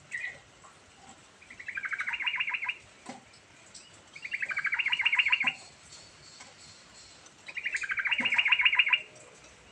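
Yellow-vented bulbul (trucukan) singing: three fast runs of rapidly repeated notes, each about a second and a half long, a few seconds apart.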